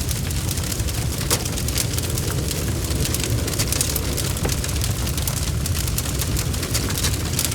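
Log fire burning, with dense, irregular crackling and popping over a steady low roar.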